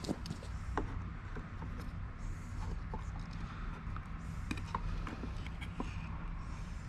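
Scattered light clicks and taps of small hardware being handled, over a steady low hum.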